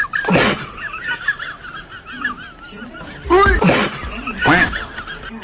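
A person laughing in short bursts, once near the start and twice more in the second half, over a continuous wavering high-pitched squeal.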